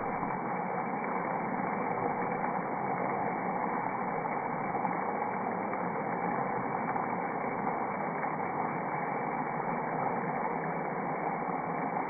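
Shredded potatoes sizzling steadily in oil in a frying pan as they are stirred with a spatula.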